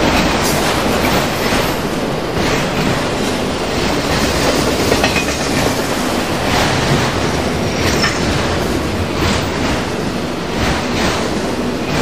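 Freight train rolling past at track speed: a continuous rumble of steel wheels on rail, with the clack of wheels over rail joints coming again and again.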